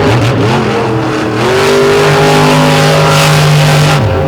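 Monster truck engine revving hard as the truck spins its big 66-inch tires on asphalt. The engine pitch dips about a second in, climbs and holds high, then falls off near the end.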